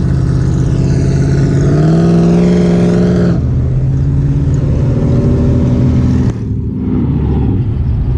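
Car engine running and pulling up in pitch for the first three seconds or so, then dropping suddenly and running steady at a lower pitch, with a brief dip in loudness about six seconds in.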